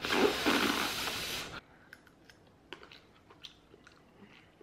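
A person huffing air out through pursed lips over a hot mouthful of food for about a second and a half, then chewing with faint, sparse mouth clicks.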